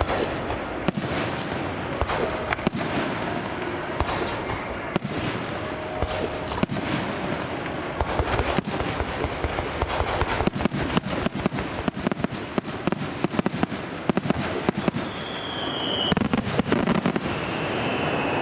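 Fireworks display: a steady rumble with many sharp bangs and crackles, coming thicker and faster from about halfway through, and two brief whistling tones near the end.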